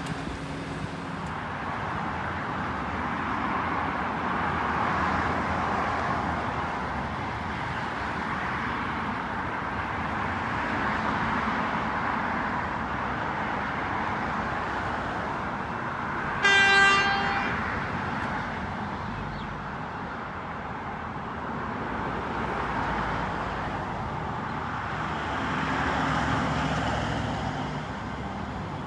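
Electric suburban train running through the station with a steady rumble that swells and fades, and one short horn toot about halfway through.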